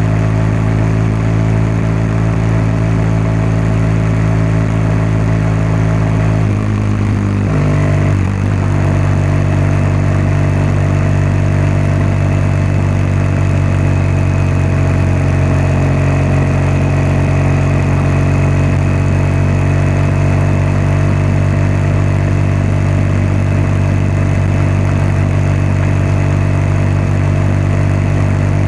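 BMW R1200GS boxer-twin engine and exhaust running at a steady pace while riding. About seven seconds in, the engine note dips and shifts briefly, like a gear change, then settles into a steady note again.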